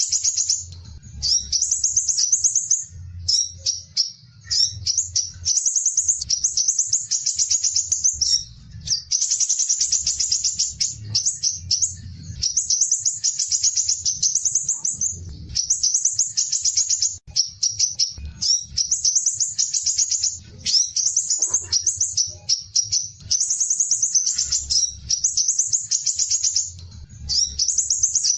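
Van Hasselt's sunbird (kolibri ninja) singing its fast, high-pitched 'besetan' trills, phrase after phrase with only brief gaps, over a faint low hum.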